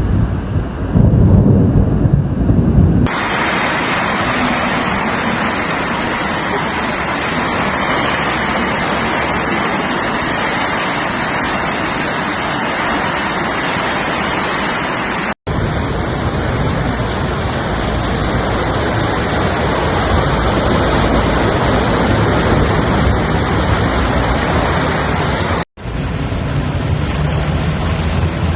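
Heavy rain: a steady, loud hiss that runs on across several joined clips, with two very short dropouts where the clips change. A deep rumble is loudest in the first three seconds, then cuts off.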